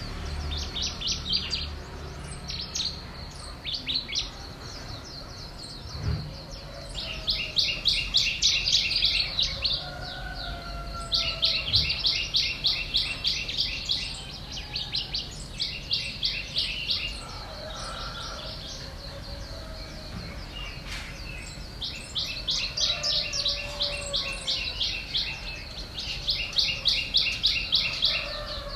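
Bird song: a bird repeating rapid high trills in bouts of about two seconds, with fainter lower whistled calls between them.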